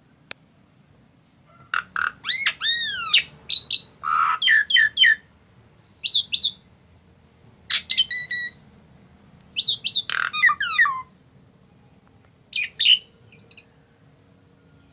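A pied starling (jalak suren) singing in a run of short phrases: whistled notes sweeping up and down mixed with harsher chattering notes, in about five bursts with short pauses between them.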